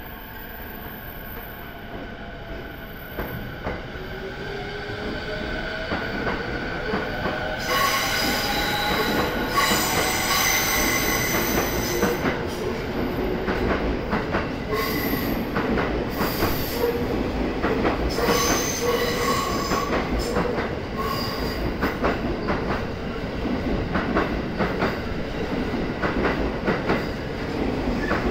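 E217-series electric commuter train pulling away and accelerating past at close range: the traction motors' whine rises in pitch over the first dozen seconds as the sound grows louder, then the wheels clack steadily over rail joints with short bouts of wheel squeal as the cars go by.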